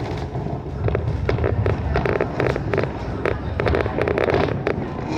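Heritage train passenger coach rolling slowly: a steady low rumble with frequent, irregularly spaced clacks and rattles.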